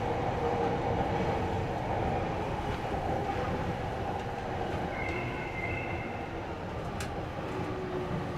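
Odakyu electric train running on the rails, heard from the cab: steady wheel-on-rail rolling noise with a traction-motor hum that sinks slightly in pitch as the level eases. A brief high squeal comes about five seconds in, and a sharp click about seven seconds in.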